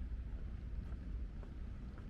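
Wind buffeting the microphone: a steady, uneven low rumble, with a few faint ticks above it.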